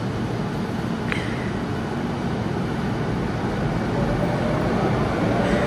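Electric commuter train approaching along the track of an underground station platform, its rumble growing steadily louder, with a faint motor whine coming in near the end. A brief squeak sounds about a second in.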